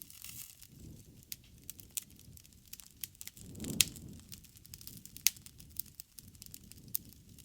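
Bonfire crackling and popping, with irregular sharp snaps of burning wood over a low rushing of flame. The loudest pop comes a little under four seconds in, inside a swell of low rushing.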